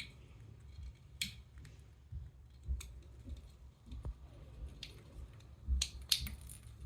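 A pet parakeet gnawing with its beak: irregular crisp snips and clicks, a few louder ones about a second in, near three seconds and twice near the end.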